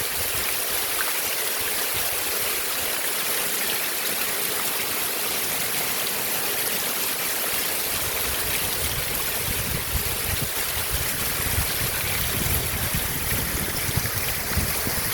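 Heavy rain falling: a steady, even hiss of water, with a low rumble joining about halfway through.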